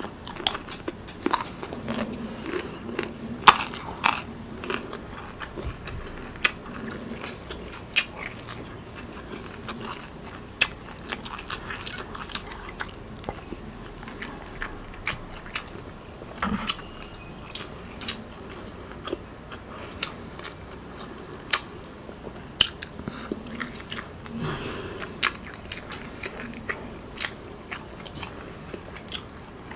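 Close-miked chewing and eating of Chinese takeout food. Many short, sharp mouth clicks and smacks come at irregular intervals.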